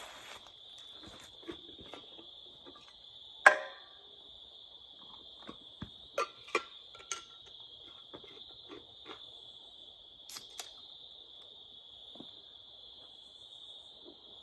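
A steady high-pitched chorus of insects chirping, with scattered light clicks and knocks over it, the loudest a single sharp knock about three and a half seconds in.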